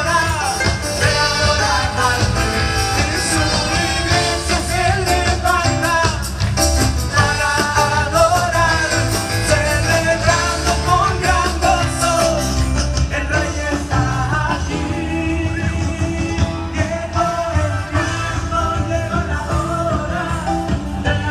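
Upbeat live band music with a melody line over bass and drums. The cymbals thin out about two-thirds of the way through.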